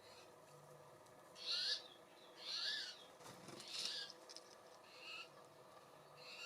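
Wild bird at a feeder giving about five short, harsh calls, roughly one a second.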